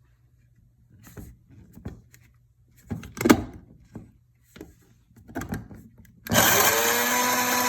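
A few scattered knocks and rattles, then about six seconds in an electric blade coffee grinder's motor starts with a rising whine that settles into a steady run, grinding dry pet food.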